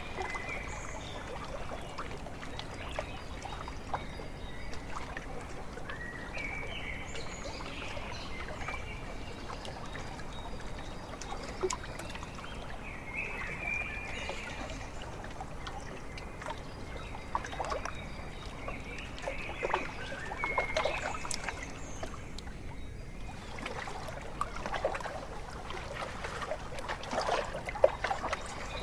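Small waves lapping and trickling at a lake shore, a steady run of little splashes. Birds call now and then over it, in short pitched calls.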